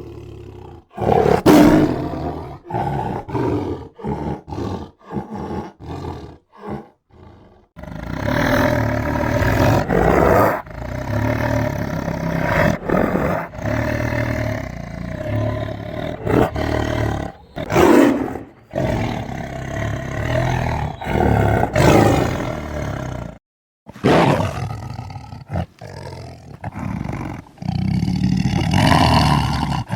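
Tiger roaring and growling. Short roars come with gaps between them for the first several seconds, then dense continuous roaring follows from about eight seconds in, broken by a sudden brief cut to silence near the end.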